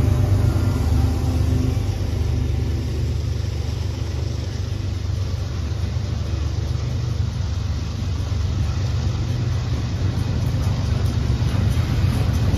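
Freight train's double-stack container cars rolling through a level crossing: a steady low rumble of steel wheels on the rails.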